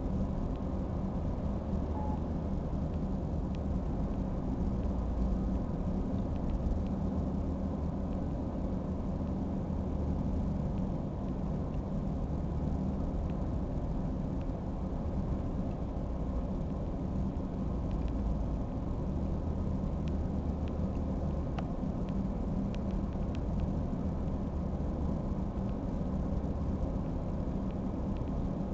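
A large engine running steadily with a low, even rumble, with a few faint ticks over it.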